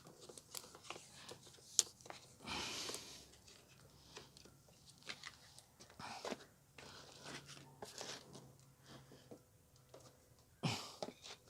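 Faint scattered clicks and knocks, with a short rustling noise about two and a half seconds in: handling noises.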